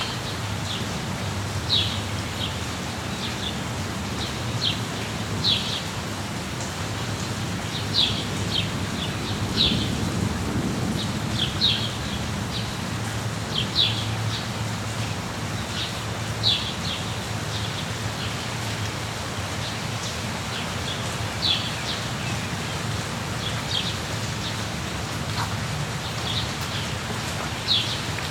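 Steady rain with a songbird chirping in short, sharp calls every second or two. A low rumble swells briefly about ten seconds in.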